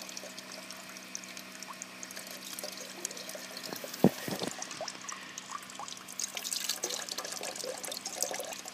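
Water from an artesian well pouring and trickling steadily, with a single sharp knock about four seconds in and a steady low hum underneath.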